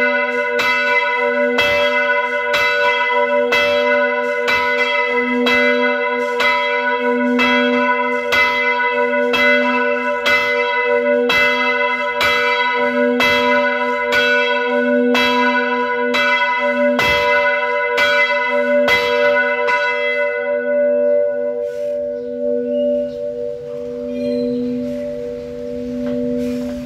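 A bell struck over and over, about two strikes a second, its tones ringing on between strikes. The striking stops about twenty seconds in, and the bell rings on and slowly fades.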